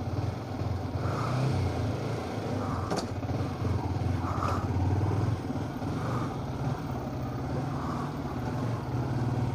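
Motorcycle engine idling steadily, a low, even rumble with no revving, the bike warmed up and waiting to pull away. A short click sounds about three seconds in.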